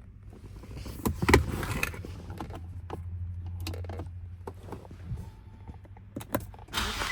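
A few sharp clicks and knocks, the loudest about a second in and a small cluster near the end, over a low steady hum through the middle.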